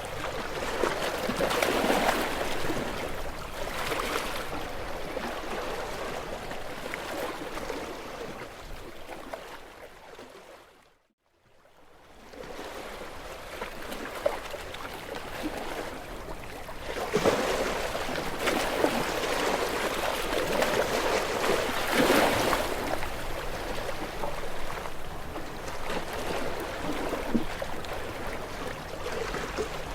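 Sea waves washing and splashing against shoreline rocks, swelling in surges every few seconds. The sound fades to near silence for about a second, roughly eleven seconds in, then returns.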